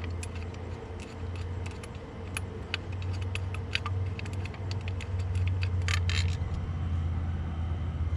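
Light metal clinks and rattles of parts and hand tools being handled as a part is fitted back onto an engine, with a brief cluster of clinks about six seconds in, over a steady low hum.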